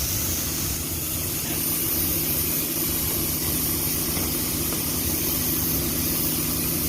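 A steady, low engine-like hum under a constant high hiss.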